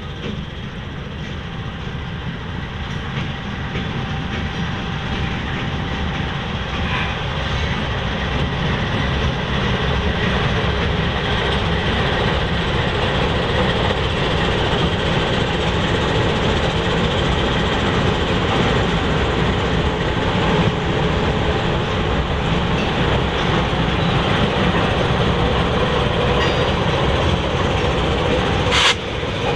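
Norfolk Southern freight train passing close by. It grows louder as the lead diesel locomotives come near and go past, then holds steady as hopper cars and boxcars roll by, with a sharp knock near the end.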